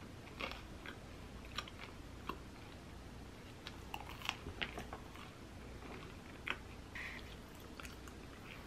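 Close-up chewing and biting of a chewy bagel with a crisp crust, with scattered small crunches and mouth clicks.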